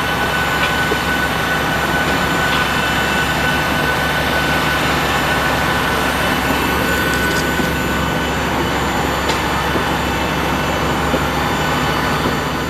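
Steady airliner cabin noise on a Boeing 737-800: an even rush and low hum with a thin high whine that fades out a little over halfway through.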